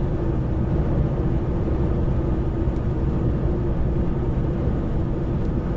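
Steady drone of a semi-truck's engine and road noise heard inside the cab while driving, with a constant low hum.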